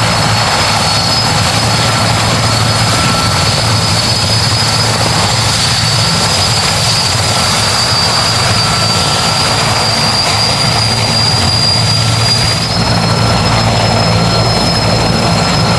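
Sikorsky S-64 Skycrane's twin turboshaft engines and rotors running: a steady high turbine whine over a loud rotor roar. The whine steps up a little and the low rumble shifts abruptly about thirteen seconds in.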